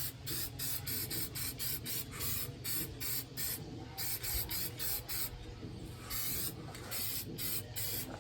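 Aerosol spray-paint can hissing in quick short bursts, a few a second, as blue paint is dusted on.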